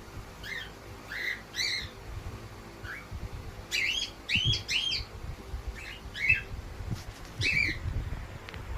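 A bird giving short, high-pitched chirping calls, about ten of them at irregular intervals, some in quick pairs or threes.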